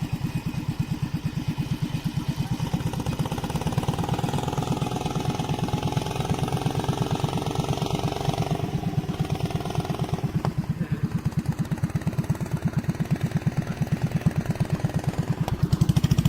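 Small boat engine running steadily with an even, rapid pulsing beat.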